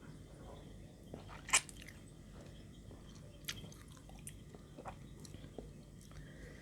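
A person chewing and biting crunchy pounded santol salad close to the microphone, with one sharp crunch about a second and a half in and a smaller one about two seconds later.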